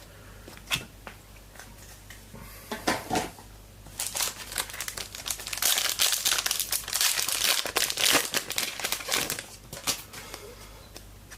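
A foil trading card pack being crinkled and torn open by hand, with a few sharp crackles first and then a long stretch of dense crinkling in the middle.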